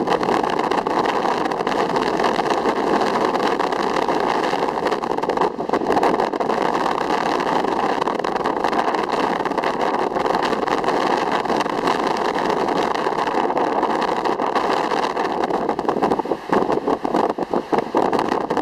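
Steady rushing of ocean surf. About sixteen seconds in, the sound turns choppy with gusts of wind on the microphone.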